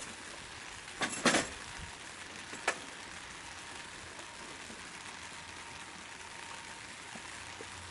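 Small wood-burning stove fire hissing and crackling steadily. There are a few sharp clinks about a second in and one more near three seconds.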